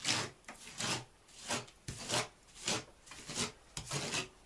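Spatula scraping and smoothing textured plaster over a fireplace box, in a series of short rasping strokes, roughly one every half second.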